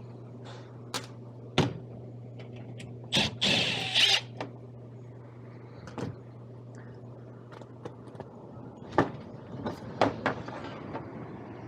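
Scattered knocks and clicks over a steady low hum, with a short burst of hiss about three seconds in.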